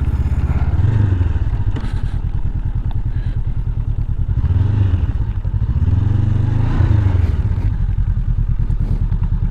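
Motorcycle engine running under way, a steady low pulsing note whose revs rise and fall a few times.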